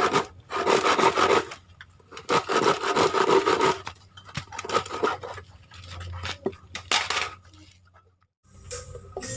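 Quick back-and-forth strokes of a hand tool rubbing on wood, in two long runs, followed by lighter scattered scrapes and taps.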